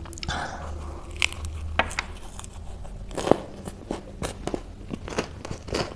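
Close-miked crunchy chewing of a lettuce-leaf wrap filled with spicy chips chaat: a bite, then an irregular string of sharp crunches as it is chewed.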